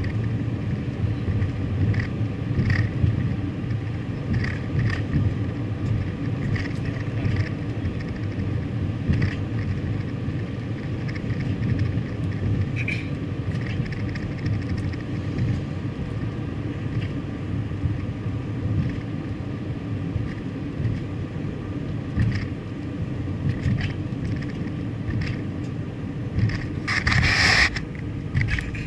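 A car being driven, with a steady low rumble of engine and road noise and scattered light ticks. A short, loud burst of hissing noise comes about a second and a half before the end.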